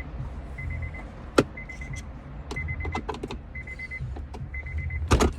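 A car's warning chime beeping steadily, a short run of quick high beeps about once a second, over a low hum. A loud sharp click about a second and a half in and a cluster of clicks and knocks near the end, from plastic console trim being worked loose.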